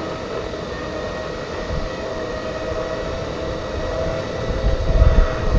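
Segway's electric drive whining steadily while riding, with wind rumbling on the microphone. The rumble gets louder and gustier near the end.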